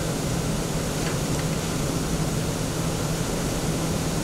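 Table saw running steadily: a constant low hum under an even whir of the spinning blade, with no change of load.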